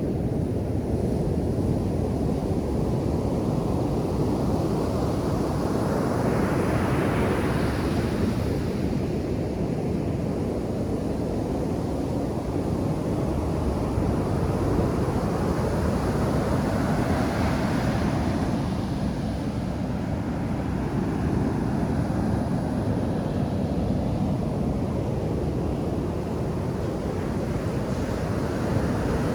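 Ocean surf on a sandy beach: a steady low rumble of waves, with two breakers swelling into a louder hiss, about seven seconds in and again near the middle.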